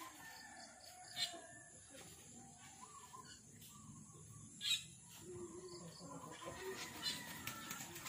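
Faint bird calls, thin wavering notes in a quiet rural backdrop, with two short sharp sounds standing out, a little over a second in and again near the middle.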